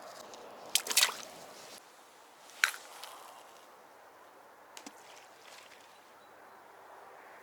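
Wet handling sounds: a cluster of sharp clicks about a second in, a single louder click near three seconds and a couple of faint ticks later, with squishing and dripping in between.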